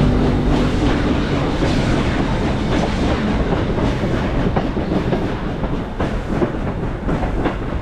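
Train rolling along the track, its wheels clicking and rattling over the rail joints in a steady clickety-clack.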